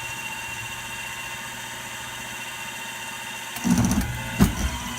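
Milling machine running with a steady motor hum. About three and a half seconds in there is a brief louder noisy stretch, then a single sharp knock.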